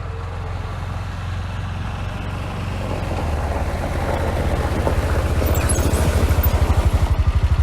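An engine running at low, steady revs, getting steadily louder, with an even pulsing throb over the last few seconds.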